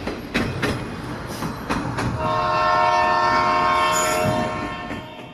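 A train clacking over rail joints for about two seconds, then its horn sounds, held for a little over two seconds and fading away near the end.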